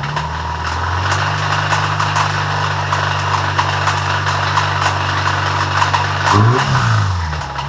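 Subaru EJ25 flat-four engine revved up and held at high RPM, with rapid ticking over it, then the revs falling away near the end. The engine is being run without oil to make it fail.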